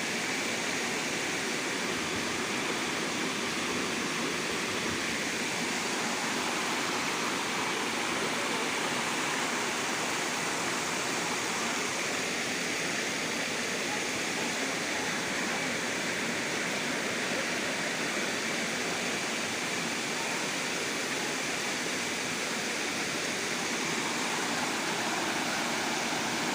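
Steady rush of waterfall and stream water, an even hiss that holds at one level throughout.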